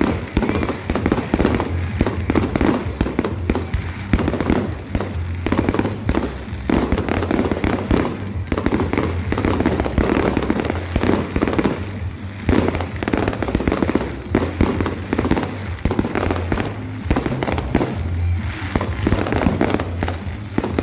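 Dense, rapid crackling and popping like a fireworks display, with music playing.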